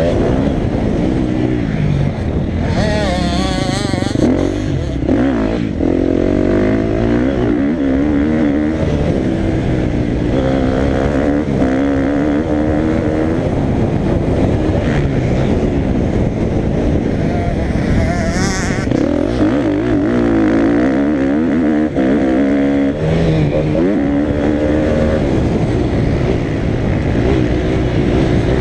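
Motocross dirt bike engine revving hard, its pitch climbing and dropping again and again as it accelerates, shifts and backs off.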